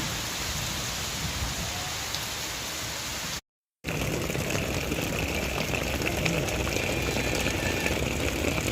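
Heavy rain falling in a steady hiss. It cuts out completely for about half a second a little over a third of the way in, then resumes slightly louder.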